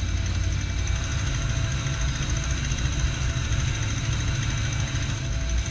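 Old motorhome's engine running steadily with a low, even sound, its throttle held open against the brake to keep it from stalling.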